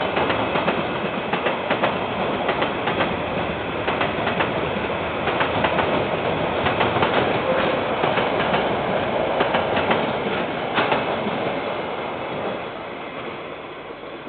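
KiwiRail train rolling past, its wheels clicking over the rail joints. The sound fades away over the last couple of seconds as the end of the train passes.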